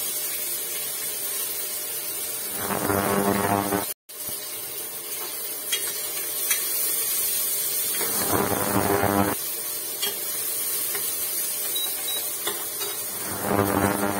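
Chopped onion, garlic and green chilli sizzling in mustard oil in a steel pressure cooker, being fried until they change colour. A spatula scrapes and stirs against the pot three times, each stroke lasting about a second and a half.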